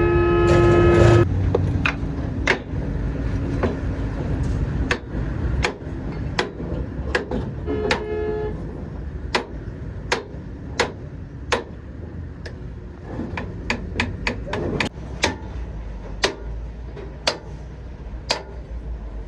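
Sharp knocks, one every half second to a second, over a steady low rumble of traffic and engines. A vehicle horn sounds at the start and again briefly about eight seconds in.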